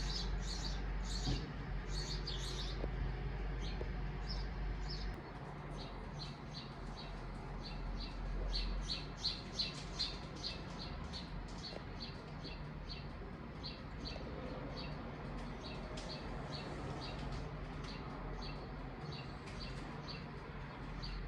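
Small birds chirping, short quick chirps several times a second and repeating throughout, over a low steady rumble.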